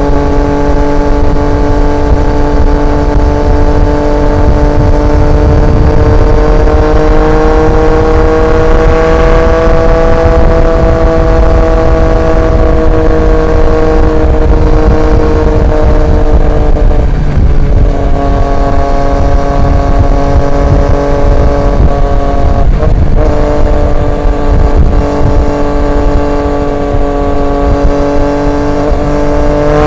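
Triumph Street Triple 765 RX's inline three-cylinder engine through an SC Project S1 exhaust, cruising at fairly steady throttle. The engine note rises gently and then eases off, dips briefly twice in the last third, and climbs again as it accelerates at the very end.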